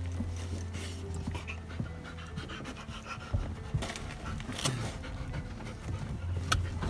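A dog panting close to the microphone, over a steady low hum.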